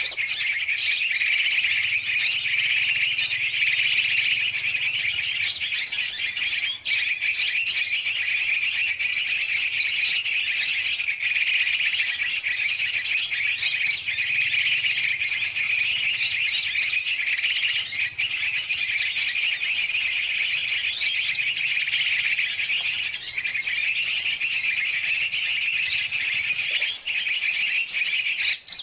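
Bird-lure recording: a dense, noisy chorus of many large and small birds chirping and calling over one another without a break. It is a lure track of mixed bird calls, made to draw birds in.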